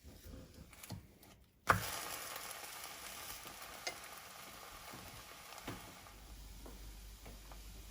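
Food dropped into a hot frying pan about two seconds in, then a steady sizzle with a few small pops.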